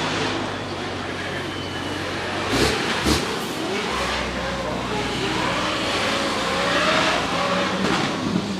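Drift car engine revving, its pitch rising and falling, with two sharp cracks close together about two and a half seconds in.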